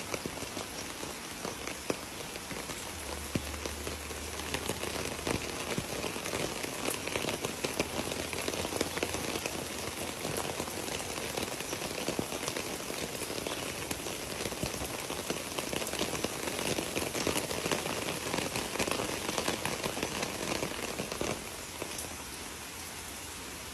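Steady rain: an even hiss of falling rain with many fine drop ticks. It gets a little quieter and smoother near the end.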